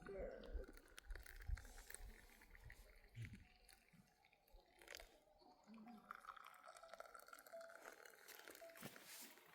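Faint crunching and chewing of sheep grazing, scattered soft clicks over near silence.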